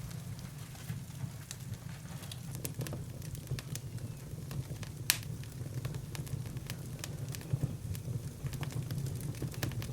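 A fire crackling, with irregular sharp pops and one louder pop about five seconds in, over a steady low rumble.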